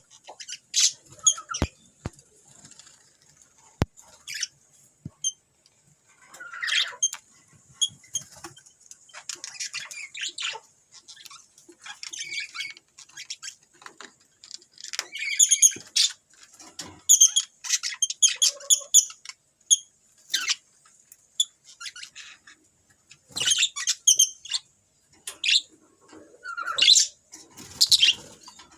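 Small parrots, a lovebird and a budgerigar, giving irregular bouts of harsh squawks and chirps, with a few sharp clicks in the first few seconds.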